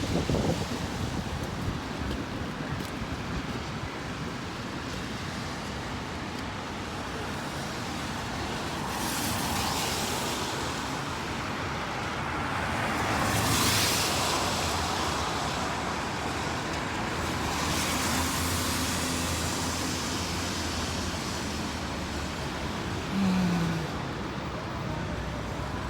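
Road traffic on a wet city street in rain and wind: a steady hiss with vehicles swelling past every few seconds. A short falling tone sounds near the end.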